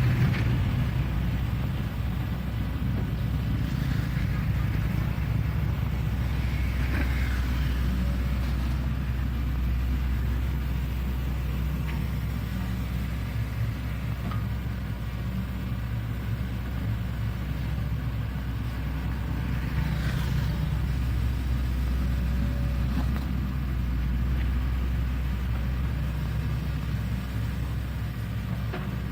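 Shantui excavator's diesel engine running steadily under work, a low continuous drone, with a few brief, faint higher noises.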